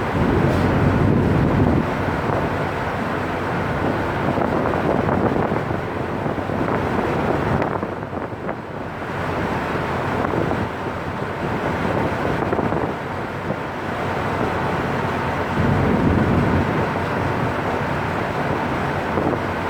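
Wind buffeting the microphone aboard a ship under way, over a steady rushing noise, with heavier gusts at the start and again near the end.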